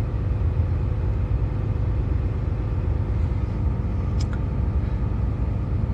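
Steady low rumble of a parked truck idling, heard from inside the cab.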